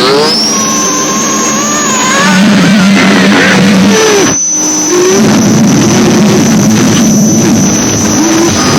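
Noise music: a loud, dense wall of distorted noise with a high whine that sweeps up at the start and then holds steady. Wavering, squealing tones run underneath, and there is a brief dropout about four and a half seconds in.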